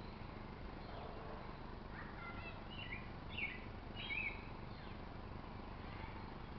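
Small birds chirping in short calls, a cluster of them in the middle with the loudest pair of chirps near the middle, over a steady outdoor background hiss.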